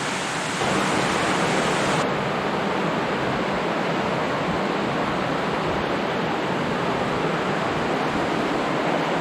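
Laurel Run's water rushing steadily through the stream tunnel, a constant noise that gets a little louder about half a second in.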